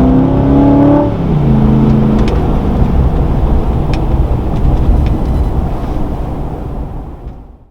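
2016 Chevrolet Silverado's 5.3-litre V8 exhaust revving up, then dropping back about a second in to a low rumble that fades out near the end.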